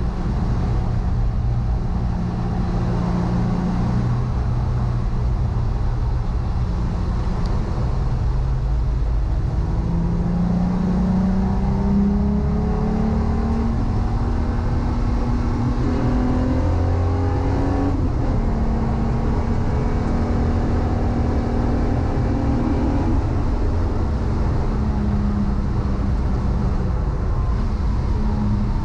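Car engine running under way with road noise, its note rising and settling several times as speed and gears change.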